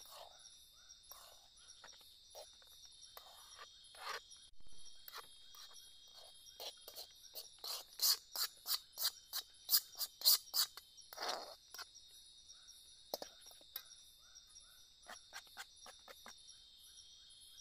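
Steady chorus of forest insects such as crickets, with a run of sharp knocks and clatters, about two or three a second, in the middle.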